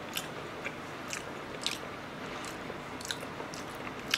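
Close-miked chewing of a mouthful of salmon sushi: irregular soft, wet mouth smacks and clicks, a couple each second.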